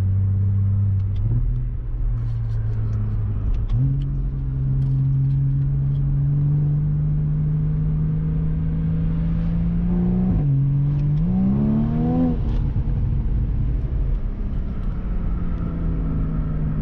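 Porsche Boxster 981's 2.7-litre naturally aspirated mid-mounted flat-six running under way, heard from the open-top cabin with wind and road noise. The revs step up a little over a second in and climb slowly from about four seconds. They drop around ten seconds in, rise quickly and fall again near twelve seconds, then hold steady.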